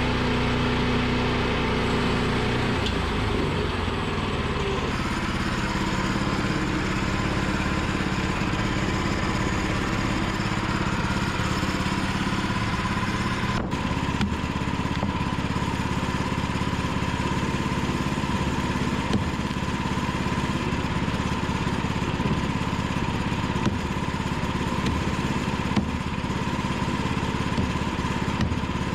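Woodland Mills portable bandsaw sawmill running, its gasoline engine driving the band blade through a log at a steady level. The engine's tone shifts a few seconds in.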